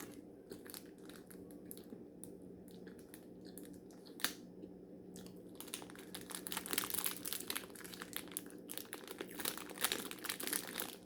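Plastic snack-cake wrapper crinkling and crackling, in scattered handling sounds that grow busier through the second half, with one sharper crackle a little after four seconds in.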